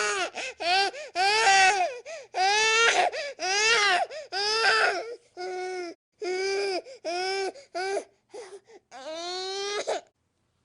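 Infant crying in a string of short wails, each rising and falling in pitch, with quick breaths between them. The cries ease a little after about five seconds and break off shortly before the end.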